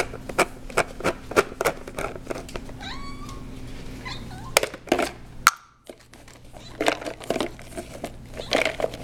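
An Abyssinian cat meows once, a short rising-then-falling call about three seconds in. It is surrounded by runs of quick, sharp clicks, about three a second, with two louder clicks a couple of seconds after the meow.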